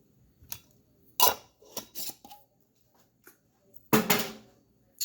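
Scattered short knocks and clatters of dishes, utensils and containers being handled, about eight in all, with the loudest a little after one second in and a longer one just before four seconds in.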